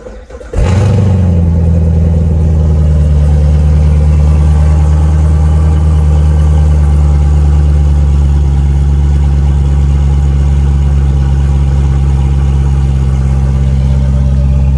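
Chevrolet Corvette C7 Z06's supercharged 6.2-litre V8 cold start: the starter cranks briefly, the engine catches about half a second in with a short flare, then settles into a steady, loud fast idle.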